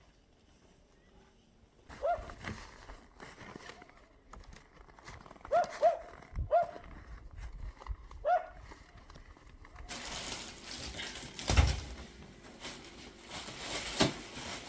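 A dog giving a handful of short, sharp barks, one at a time, starting about two seconds in. Later comes rustling and a single dull thump.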